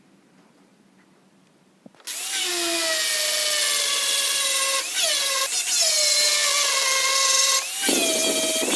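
An electric power tool starts about two seconds in and runs with a high whine. The pitch sags briefly several times, as the tool is pressed into the steel blade being shaped.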